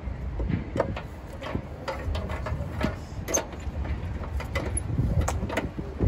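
Parts being handled and fitted by hand in a minivan's engine bay: scattered light clicks and knocks, about a dozen, over a low steady rumble.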